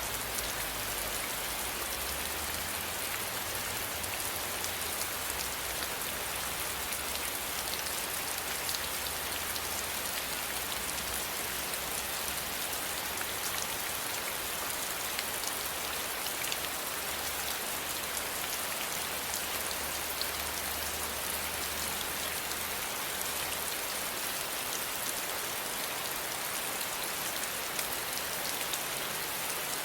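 Steady rain falling: an even hiss with scattered ticks of individual drops. A low rumble runs under it until about 24 seconds in.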